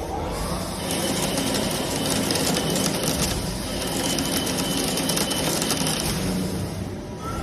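CNC lathe turning metal, the tool breaking the chips into a dense, steady crackle over the hum of the machine.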